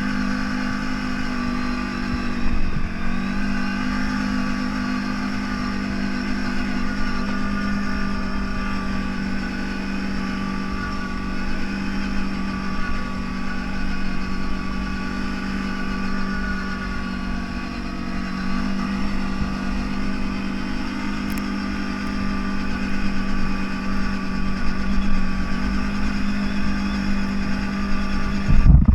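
CFMoto 1000 off-road vehicle's engine running steadily under way, with a brief dip in pitch a couple of seconds in and a short loud jolt near the end.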